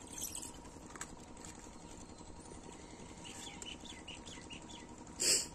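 Quiet outdoor ambience with a short run of faint bird chirps in the middle, then a brief, loud rustling burst near the end.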